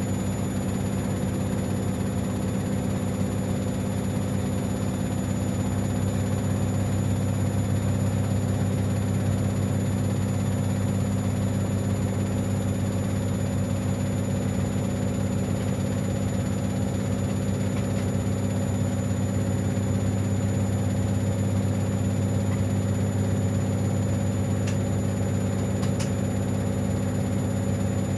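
Siemens Extraklasse XLs 140 A front-loading washing machine running mid-way through a 60 °C cottons stain programme, giving a steady, unchanging low hum.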